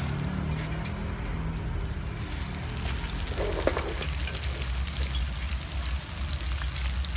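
Tofu strips frying in hot oil in a wok, a steady sizzle with small pops. It grows louder about two seconds in, and a metal spatula scrapes and turns the pieces around three and a half seconds in. A steady low hum runs underneath.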